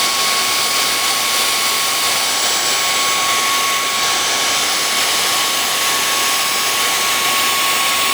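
Dyson cordless handheld vacuum cleaner running steadily: a high, steady motor whine over the rush of air.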